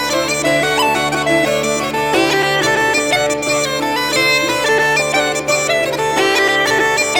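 Background music: bagpipes playing a quick melody of short notes over a steady drone.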